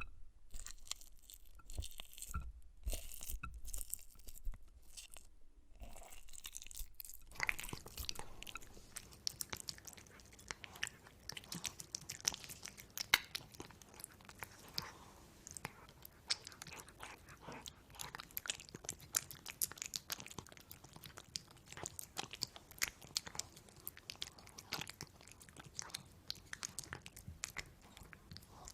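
A person chewing crunchy food close to the microphone, with many irregular crunches, sparse at first and then steady.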